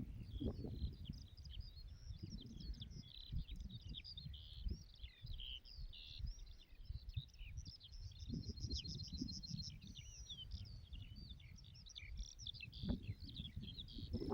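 Several small birds chirping and singing continuously in an open field, one of them adding a fast, even trill from about halfway through, over a gusty low rumble of wind on the microphone.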